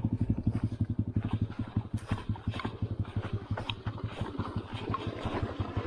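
Motorcycle engine running at low revs with a steady, fast putter, and scattered rattles and knocks from the bike over a rough off-road trail.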